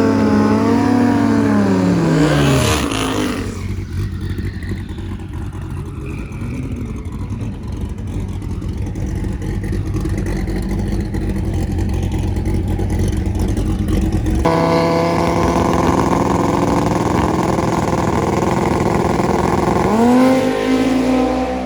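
Twin-turbo Dodge Viper V10 drag car: the engine revs, then pulls away with its pitch falling, and runs loud and rough for several seconds. After a cut it runs steadily and revs up again near the end.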